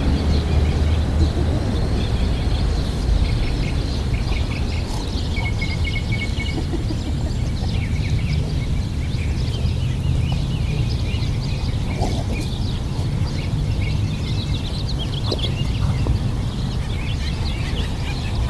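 Birds chirping over a steady low outdoor rumble, with a few faint knocks.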